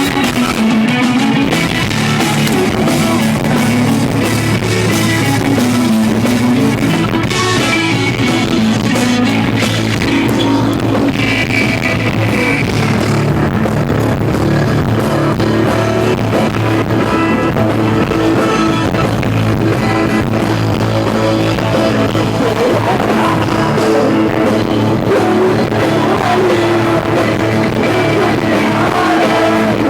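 Live rock band playing a song at full volume, electric guitars over bass and drums, continuous throughout.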